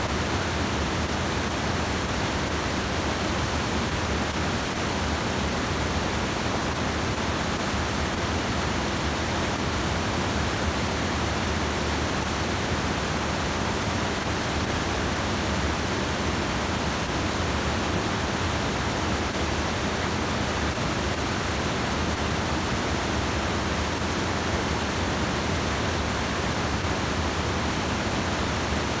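Stream water rushing steadily over a small check dam (sabo weir): an even, unbroken roar of falling water.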